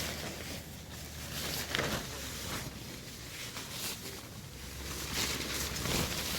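Windstorm gusts against a tent, the fabric flapping and rustling in irregular bursts, with the gust building louder near the end.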